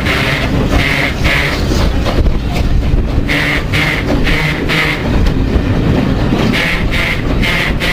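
Steam locomotive 73096, a BR Standard Class 5 4-6-0, making a run of short hissing bursts, about two or three a second, over a steady low rumble. The bursts come in three runs with short pauses between them; this is the strange noise the engine was filmed for.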